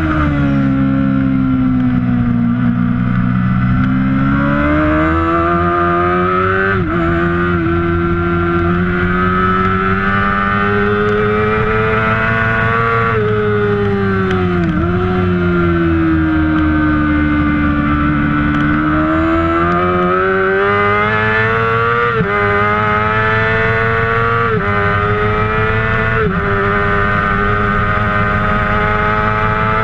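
Kawasaki ZX-6R inline-four engine at racing speed, its pitch climbing through the gears with a sharp step at each upshift and sweeping down under braking and downshifts.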